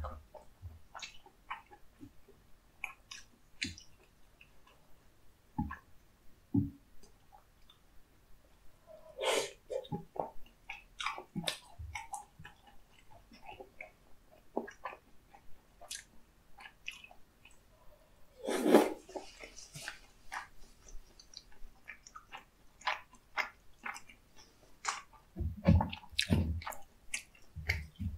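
Close-miked chewing and wet mouth sounds of someone eating chewy tteokbokki rice cakes and sundae (Korean blood sausage): a string of small smacks and clicks, with one louder, longer mouth sound about two-thirds of the way through and a few dull knocks near the end.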